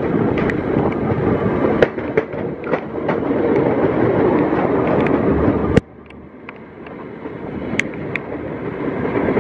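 Rushing rumble of two passenger trains passing side by side on adjacent tracks, with sharp clicks of wheels over rail joints. Just before six seconds in, a sharp knock comes and the noise drops suddenly, then slowly builds back up.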